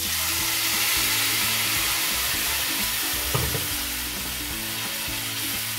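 Spinach puree hitting hot oil and fried spices in a kadhai, sizzling loudly. The sizzle starts suddenly as the puree goes in and eases off slightly as a wooden spatula works it through.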